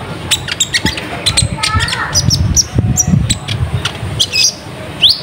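Konin (kolibri ninja) sunbird call: a fast, dense run of sharp high chips and short twittering notes with no break.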